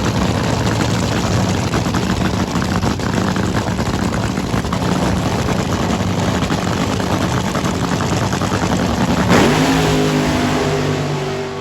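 Drag-racing funny car engine running at full power, loud and rough and steady. About nine seconds in, a sharp crack comes, then the engine pitch falls steadily as the sound fades.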